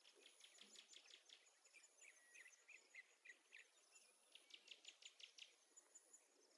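Near silence, with faint quick high-pitched chirping in short runs over a faint steady high whine.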